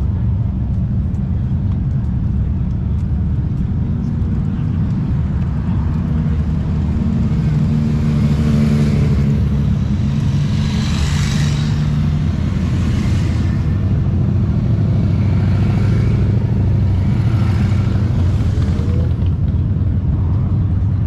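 Motorcycle engine running steadily with a deep low rumble, while the noise of passing traffic swells and fades a few times.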